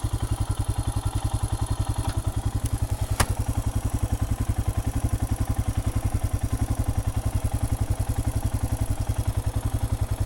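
Royal Enfield Himalayan's 411 cc single-cylinder engine idling with a steady, even thump, and one sharp click about three seconds in.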